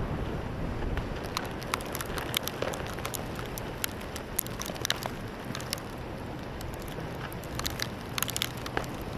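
Steady blizzard wind noise with frequent sharp ticks and crackles of wind-driven snow striking the microphone.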